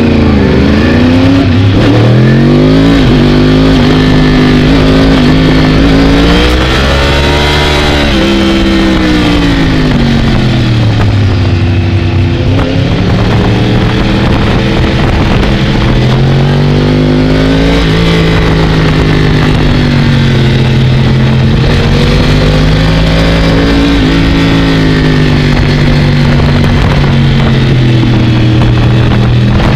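Sport motorcycle engine heard from on board, its revs climbing and dropping again and again as the bike accelerates out of and slows into corners.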